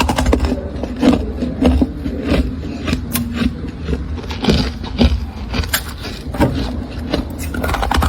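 Freezer frost scraping and crunching in a string of gritty strokes, roughly one every two-thirds of a second, over a steady low hum.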